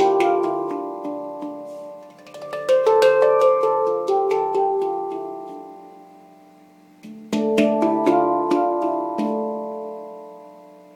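Yishama Mystic 9 handpan in D minor played by hand: struck steel notes ringing with long sustain, in short melodic phrases that die away between them, a new phrase starting about two and a half seconds in and another about seven seconds in. The instrument has just been retuned after being reglued.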